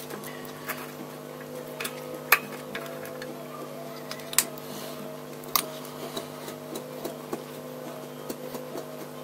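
Scattered clicks and knocks of metal parts and tools being handled, a few of them sharper and louder, over a steady electrical hum.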